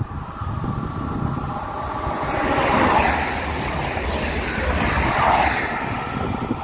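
Regio 2N double-deck regional electric train passing close on the near track: wheel-on-rail rumble and rushing noise. The noise builds over the first couple of seconds and swells twice, around three and five seconds in.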